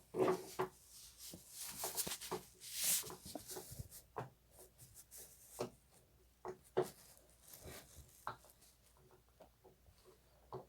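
Silicone pop-it fidget toy being pressed, its bubbles popping in an irregular series of short pops, with some fingers rubbing over the silicone.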